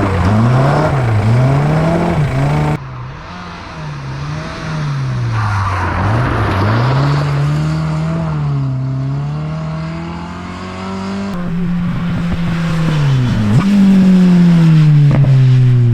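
Rally car engines revving hard, pitch climbing and falling through gear changes and lifts as the cars drive the stage, with abrupt changes of car about 3 s and 11 s in. A few sharp cracks sound over the engine near the end.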